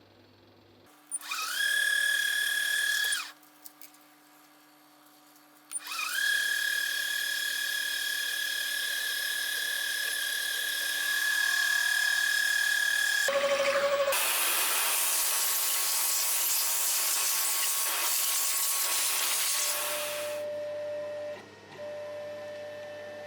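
An electric power tool motor whines up to speed and runs briefly, then starts again and runs steadily at a high pitch. This is followed by a louder, rushing run that ends near the end, leaving a fainter steady hum.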